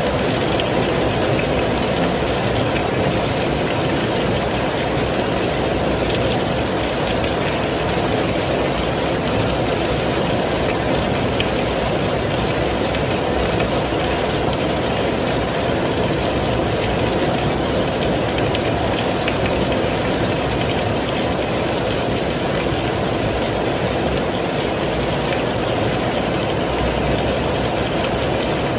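Heavy rain falling steadily, a dense, even hiss with a low rumble and no breaks.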